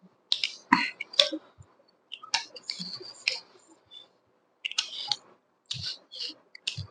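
Close-miked eating sounds from a mukbang meal of pork and chicken: irregular wet smacks and sharp clicks of chewing, with short pauses between bites.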